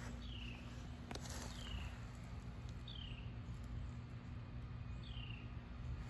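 A bird repeating a single falling whistled note, four times at intervals of about a second and a half, over a steady low hum.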